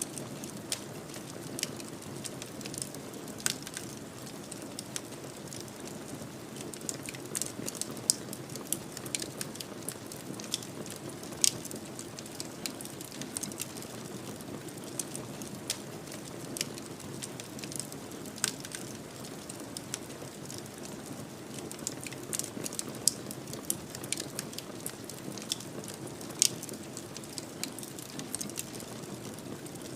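Fireplace fire burning with a steady low rush and irregular crackles and pops throughout, a few sharper snaps standing out.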